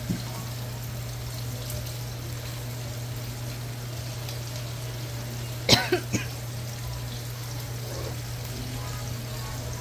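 Saltfish frying in oil in a nonstick pan: a steady sizzle over a low hum. About halfway through come a few quick clinks of a fork against the pan.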